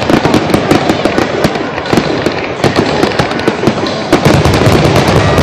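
Aerial fireworks shells bursting in rapid succession, a dense run of bangs and crackles, with a heavier low rumble building about four seconds in.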